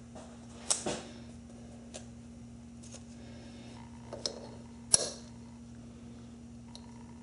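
Tools being handled at a lathe: a handful of sharp metallic clicks and clacks, the loudest about a second in and about five seconds in, over a steady low hum.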